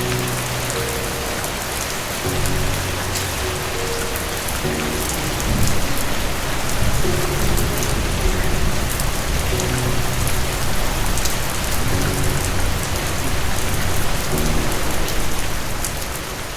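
Steady heavy rain hissing, with the sharp ticks of single drops, over soft low sustained music notes that change every second or two. A low rumble of thunder swells about a third of the way in and runs on beneath the rain.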